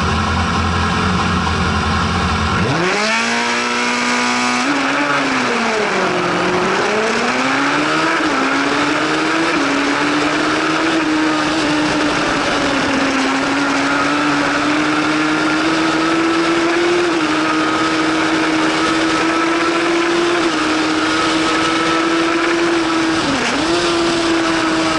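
1000 cc superbike engine idling, then from about three seconds in revving hard and climbing quickly through the gears. It eases off and picks up again, then holds a steady high note at speed, with a brief dip near the end.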